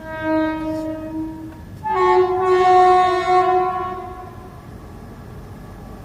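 Indian Railways locomotive horn sounding two blasts: a shorter, lower one, then after a brief gap a longer, louder, slightly higher one that fades out.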